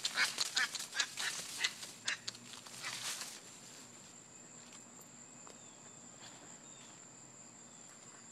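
A large bird giving a quick run of harsh, quacking calls for about three seconds, then falls silent. A steady high insect drone runs underneath.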